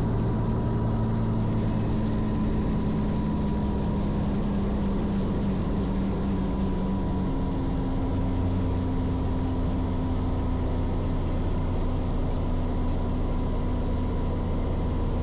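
Robinson R44 helicopter running steadily: piston engine and rotor drone, with a few steady low tones that shift slightly in pitch about halfway through.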